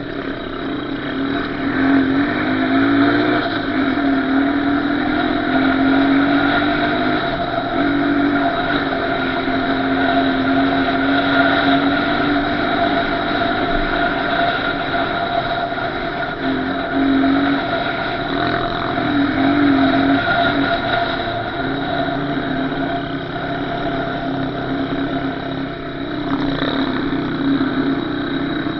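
Small single-cylinder off-road engine running under way, its pitch wavering up and down with the throttle.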